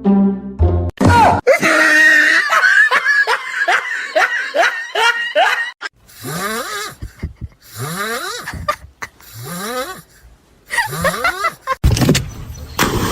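A person laughing hard in quick repeated bursts, then a loud noisy burst near the end.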